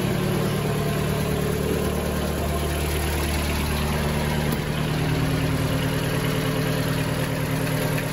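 Mitsubishi Pinin's engine idling steadily through an exhaust with a newly fitted flex pipe, running quieter than it did.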